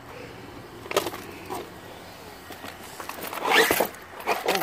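Brushless electric RC monster truck driving on dirt in short bursts of throttle, loudest about three and a half seconds in and again near the end, with a sharp click about a second in.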